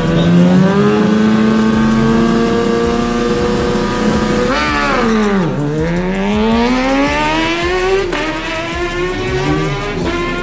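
Superbike engines running at high revs. About four and a half seconds in, one bike passes close by and its pitch drops sharply. Its engine note then climbs again, with short breaks near eight and ten seconds like upshifts.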